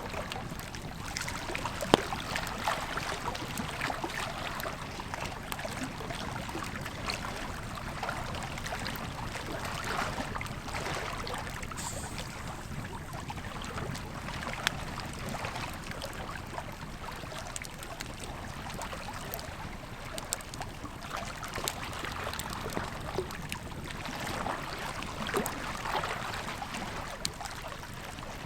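Campfire crackling with scattered sharp pops over the steady rush of a flowing river; the loudest pop comes about two seconds in.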